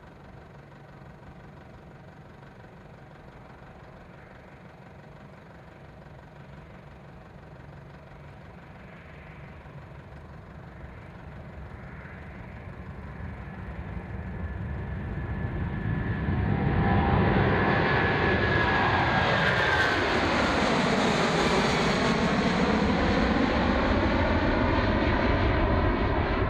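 Boeing 777 jet engines at takeoff power on the takeoff roll. The sound grows steadily louder as the airliner approaches, then stays loud. About two-thirds of the way through, the engines' whine drops in pitch as the plane passes.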